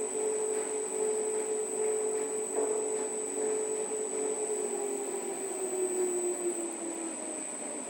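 Large 39 kg commercial washing machine running, its drum motor whining steadily, then dropping in pitch from about five seconds in as the drum slows down.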